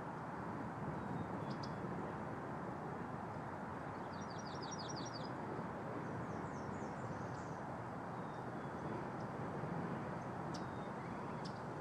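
A bird gives a quick trill of about eight high, evenly spaced chirps about four seconds in, then a short second phrase of falling high notes. Both sound over a steady outdoor background hiss and rumble.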